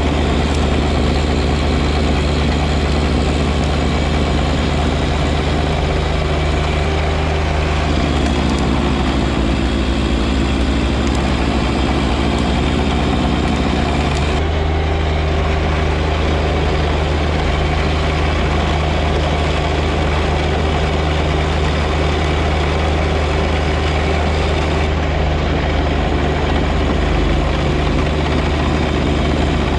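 John Deere 1025R compact tractor's three-cylinder diesel running steadily while it works with its snow blower, its note shifting for several seconds about a third of the way through.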